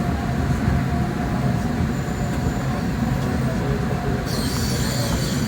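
CAF Type 9 light-rail train running, heard from inside the car as a steady low rumble. A high-pitched wheel squeal starts near the end.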